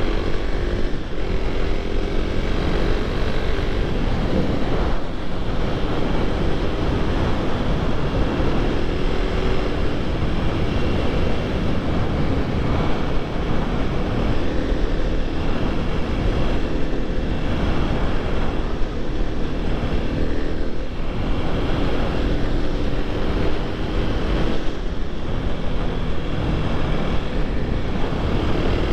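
Supermoto motorcycle engine running steadily at highway speed, its pitch drifting slightly up and down, under a constant rush of wind noise.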